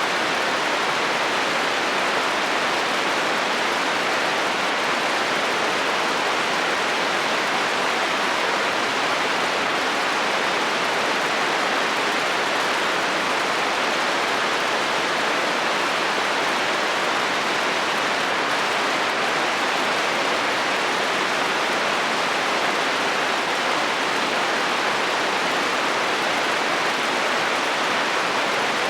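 Heavy rain falling on a metal roof: a steady, even hiss with no change in strength and no thunder.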